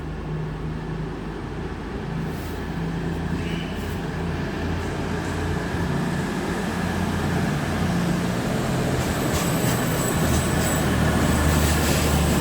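Class 222 Meridian diesel multiple unit's underfloor diesel engines running, growing steadily louder.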